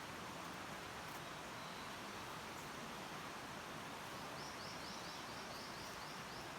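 Steady outdoor hiss, with a small bird giving a quick high trill of about ten short repeated notes near the end.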